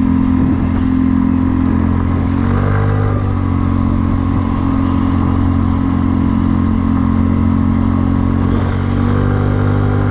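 Kymco People 250 scooter's single-cylinder four-stroke engine running under way, its exhaust leaks patched with JB Weld high-heat epoxy so that it runs semi-quiet. The engine note shifts in pitch about two and a half seconds in and again near the end.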